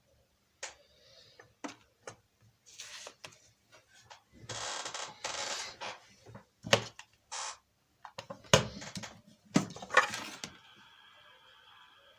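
Handling noise from small metal parts and tools: scattered clicks and sharp clinks, with a few seconds of scraping or rustling about halfway through.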